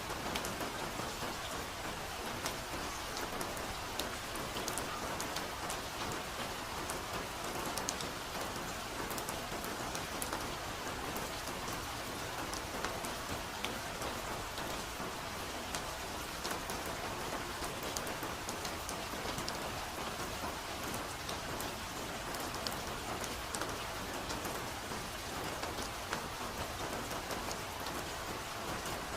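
Steady soft rain falling, an even hiss with many small drops ticking through it.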